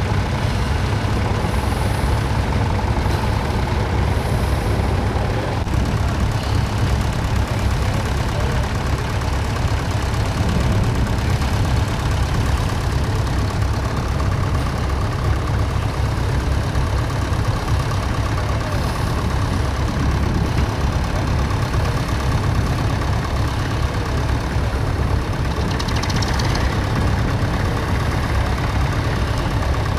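Vintage tractor engine running steadily at a low, even note.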